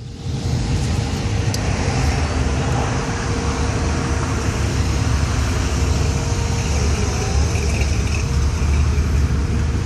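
Engines of classic cars running steadily in slow, stacked-up cruise traffic.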